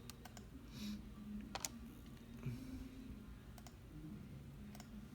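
A handful of sharp, isolated computer mouse and keyboard clicks, spaced out over a faint low hum.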